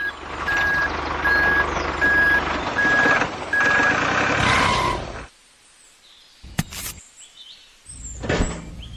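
Vehicle reversing alarm beeping six times, about one and a half beeps a second, over a running engine. The sound cuts off suddenly about five seconds in, followed by a few clicks and a knock.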